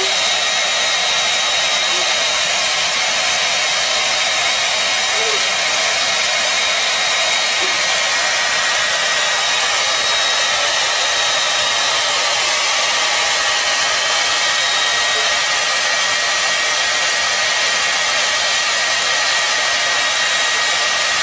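Hair dryer running steadily on one setting: an even rush of blown air with a steady high motor whine over it.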